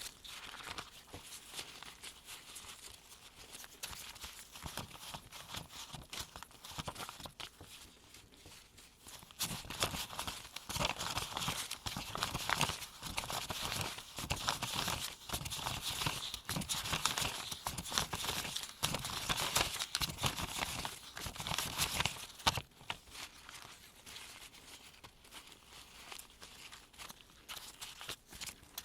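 Gloved hands counting US one-dollar paper bills into a pile: a rapid run of crisp paper flicks and rustles, louder through the middle stretch.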